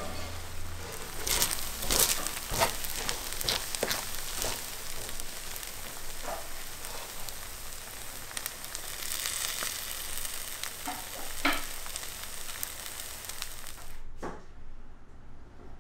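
Food frying in hot oil: a steady sizzling hiss, broken by a few sharp knocks and clinks of utensils. The sizzle cuts off suddenly near the end.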